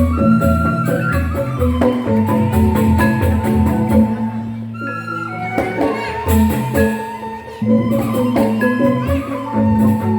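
Balinese joged bumbung gamelan playing: bamboo xylophones in fast, dense struck patterns over repeating low beats. The music thins briefly about halfway through, then picks up again.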